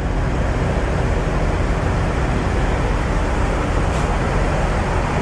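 Semi-truck's diesel engine and road noise heard from inside the cab while driving: a steady low drone with an even rushing hiss.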